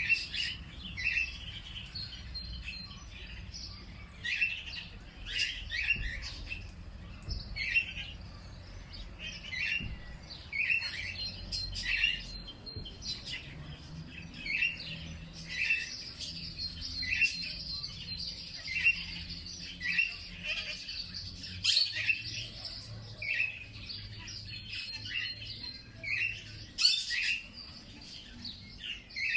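Birds chirping: short, high chirps repeated one or two times a second, with a faint low rumble underneath.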